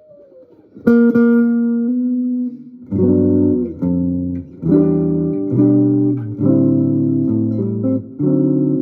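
Solo guitar playing. A single ringing note is struck about a second in, then a run of full chords over moving bass notes follows from about three seconds, struck roughly once a second.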